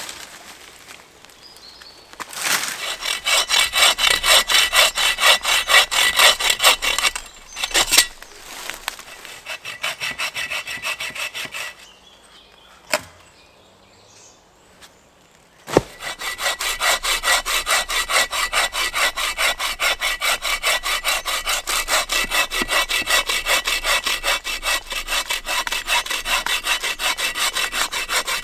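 Hand saw cutting dead branches into firewood: rapid, even back-and-forth strokes in three runs, broken by two short pauses, with a sharp knock just before the last and longest run.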